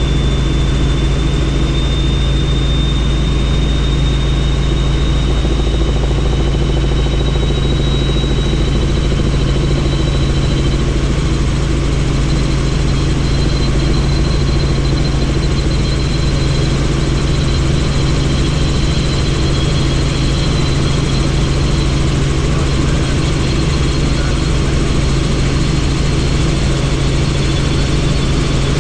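Helicopter in flight, heard from on board: a steady, loud drone of rotor and engine with a thin high turbine whine that creeps slightly up in pitch over the first ten seconds or so.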